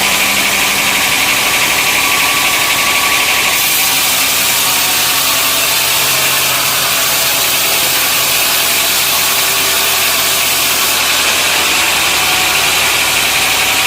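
Sawmill machinery running steadily: an engine hum under a loud, even hiss, which grows brighter about a quarter of the way in and eases back near the end.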